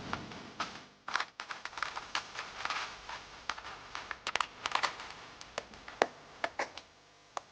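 Irregular clicks and scraping of holes being cut by hand into a small lunchbox enclosure, with no motor running.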